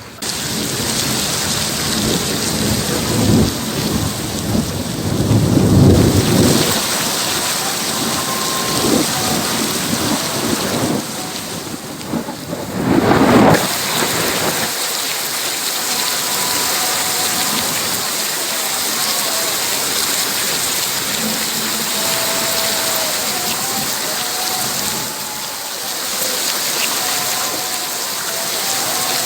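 Heavy rain pouring steadily in a thunderstorm, with thunder rumbling twice: a long roll about four to six seconds in and another about thirteen seconds in.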